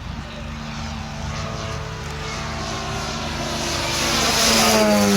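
Propeller and electric outrunner motor of a giant-scale RC glider in flight, a steady drone that grows louder and then drops in pitch near the end as the model passes.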